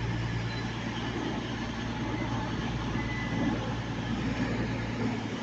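Diesel engines of a CrossCountry Voyager multiple unit idling at the platform, a steady low hum.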